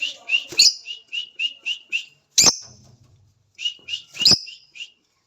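Lutino lovebirds chirping in quick, evenly spaced short chirps, about four a second, with three sharp loud sounds cutting in.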